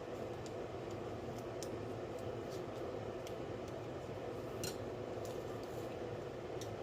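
Faint, scattered clicks and ticks of kitchen utensils against pots, over a steady low hum. One click a little louder near the end.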